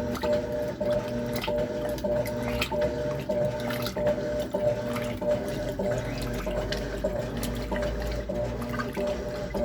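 Electrolux LTC10 top-loading washing machine agitating a full load: a steady motor hum with an even back-and-forth rhythm, a little under a second per stroke, over water sloshing and splashing in the drum.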